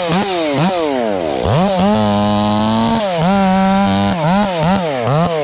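Two-stroke chainsaw running near full throttle, its engine pitch dropping and climbing back again and again as the throttle is eased and reapplied. It holds a steady high rev for over a second in the middle.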